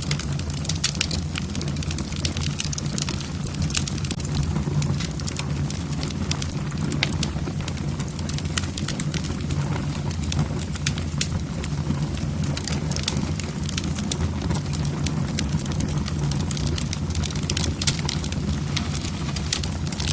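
Logs crackling and popping in a wood-burning fireplace: many sharp, irregular snaps over a steady low rumble.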